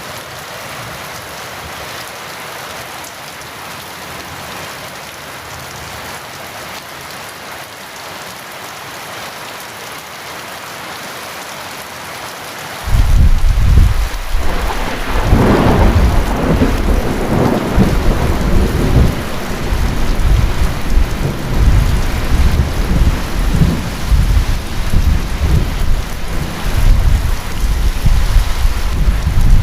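Heavy rain falling steadily. About thirteen seconds in, thunder breaks in suddenly with a loud crack, then rumbles on deep and uneven over the rain.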